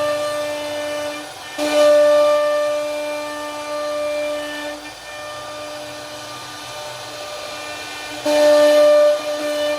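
CNC router spindle whining at a steady pitch while carving wood, turning suddenly louder and brighter for a spell about a second and a half in and again near the end.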